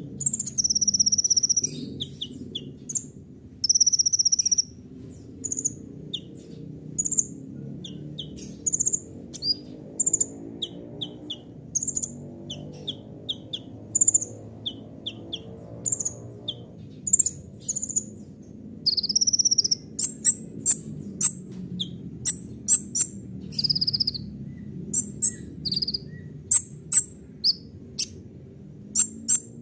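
Kolibri ninja sunbird singing a fast, varied song of short, sharp, high chirps, broken by a few quick trills, with a low steady hum beneath.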